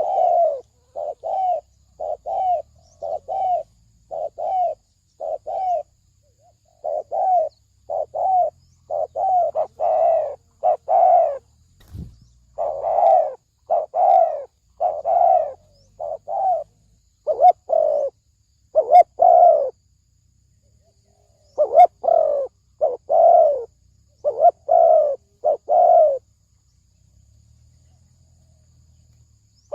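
Spotted dove of the deep-voiced 'thổ sấm' type cooing: a long run of short, repeated low coos in bouts broken by brief pauses. There is a single dull thud about twelve seconds in, and the cooing stops near the end.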